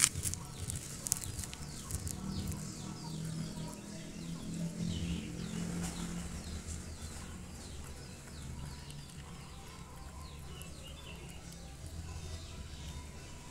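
Birds chirping in the background, with many short falling chirps repeating all through, over a low steady hum.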